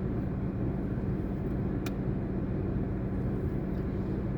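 Car cabin with the engine running and the air conditioning blowing hard: a steady rush of air over a constant low hum. A faint click sounds about two seconds in.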